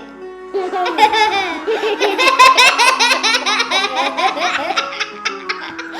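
A young child laughing hard in a long run of rapid giggles, with music playing underneath.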